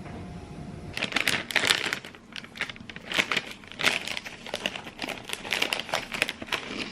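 Plastic packaging being crinkled and torn by hand: a dense run of irregular crackles starting about a second in.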